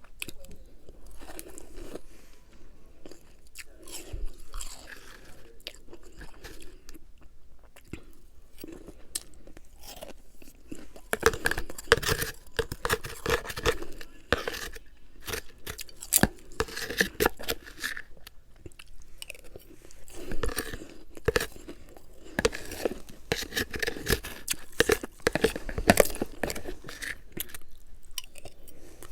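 A person chewing and crunching a mixture of refrozen freezer frost and humidifier frost. The chewing is softer for about the first ten seconds, then turns into louder, denser crunches.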